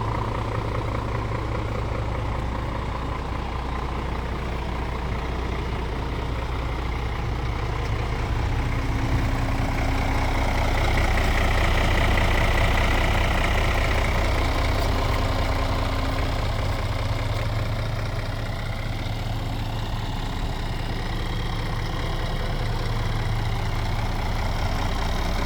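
Scania S-series truck engine idling steadily, with a slight swell in loudness about halfway through.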